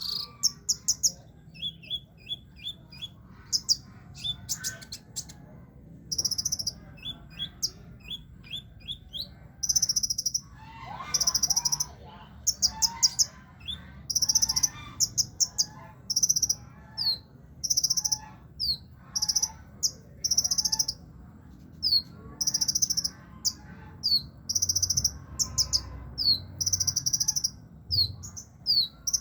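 A sunbird kept as a 'kolibri ninja' singing busily. Its song is made of short, very high-pitched buzzy trills repeated every second or so, mixed with quick falling chirps.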